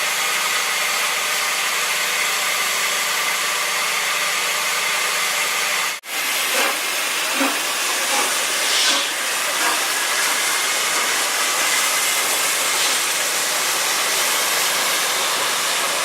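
Steady hiss of steam escaping from a steam locomotive. The hiss cuts out for an instant about six seconds in, then carries on with a few faint knocks under it.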